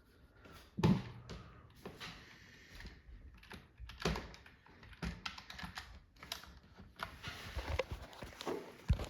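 Irregular clicking and tapping, with a louder knock about a second in and quick clusters of clicks later on.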